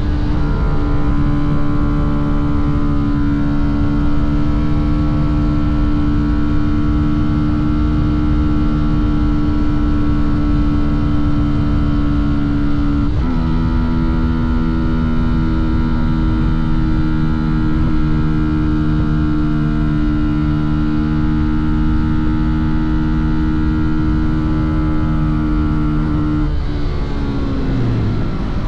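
Fantic Caballero 125's single-cylinder engine and exhaust running at steady revs on the move. There is a brief dip and step in pitch about halfway, and the revs fall away near the end as the throttle closes.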